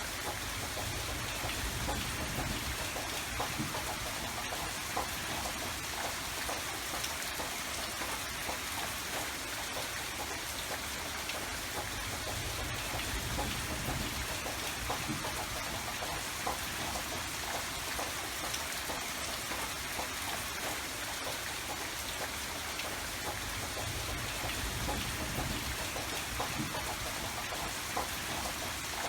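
Steady rain falling, a continuous hiss with many small drops pattering, and a soft low rumble that swells and fades a few times.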